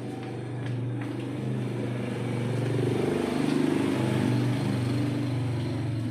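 A machine running with a steady low hum, with a rushing noise that swells over it in the middle and eases off.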